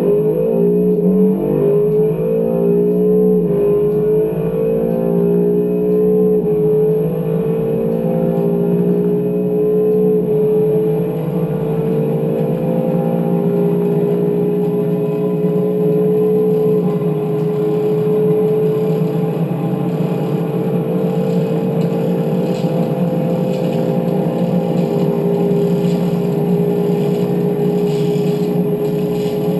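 Cabin sound of a 2017 Honda NSX's twin-turbo V6 hybrid powertrain under full-throttle acceleration toward 300 km/h. The engine note rises and drops back with quick dual-clutch upshifts over the first dozen seconds or so, then settles into a long pull in the top gears, climbing slowly in pitch, with road and wind noise.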